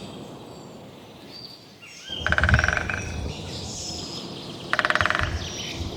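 Woodpecker drumming on a tree: two short bursts of very rapid, even strikes, about two seconds in and again near the end, with faint birdsong behind.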